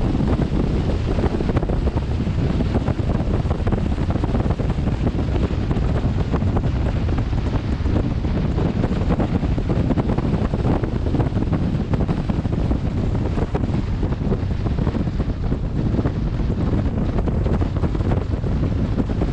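Wind buffeting a helmet-mounted camera's microphone on a moving motorcycle: a steady, loud rush weighted toward the low end, drowning out the engine.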